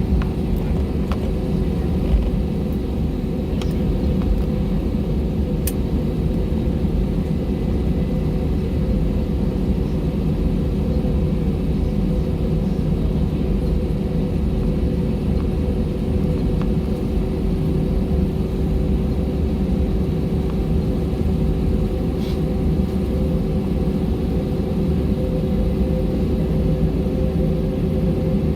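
Steady rumble inside the cabin of an Airbus A320-232, its IAE V2500 turbofans running at low power, with a constant hum and a few light clicks.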